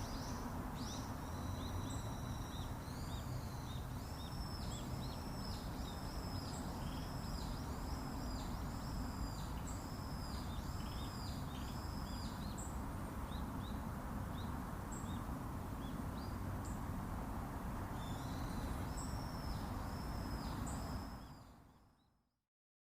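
A bird singing a long run of repeated, arched high notes, about two a second, over steady outdoor background noise. The song stops for several seconds, returns briefly, and the sound fades out to silence near the end.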